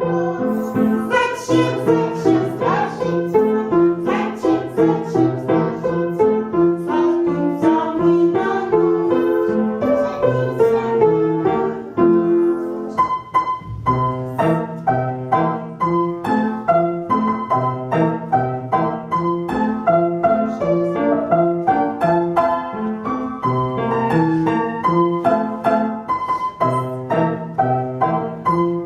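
Piano music, with a break about twelve seconds in after which a new piece of separate piano notes begins.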